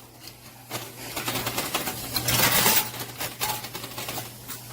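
Quarters clinking and clattering in a coin pusher arcade machine: a quick run of small metallic clicks starting about a second in and thinning out past the middle, over the machine's steady low hum.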